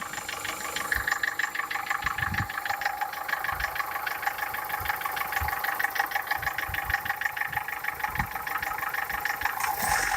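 Warmed-up Toyota 4S inline-four engine running with a steady, rapid knocking from the cylinder head. The knock comes from camshafts with play in their worn bearing seats.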